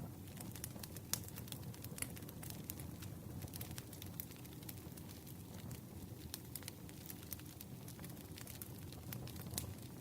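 Campfire crackling: frequent sharp snaps and pops over a low, steady rush of flame. The loudest pops come about a second in and near the end.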